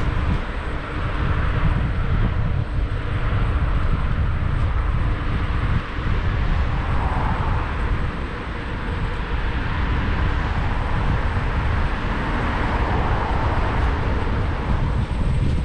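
Wind rumbling on a helmet-mounted action camera's microphone during a ride on a Xiaomi 1S electric scooter, over a steady rush of road and street-traffic noise.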